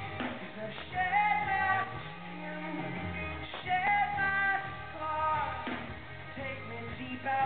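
Live music from a singer and band: a sung melody with long held notes over steady instrumental accompaniment, recorded with a dull, muffled top end.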